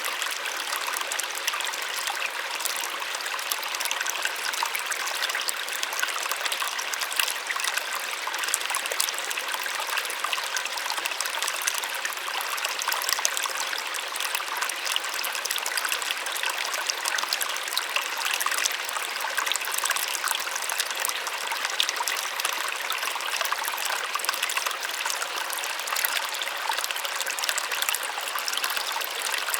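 Small waterfall splashing steadily, a continuous gentle rush of falling water with fine splashes and almost no low rumble.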